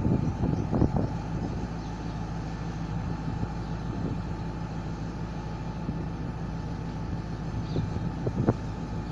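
Diesel locomotive engine running with a steady low hum, with a few faint knocks near the start and near the end.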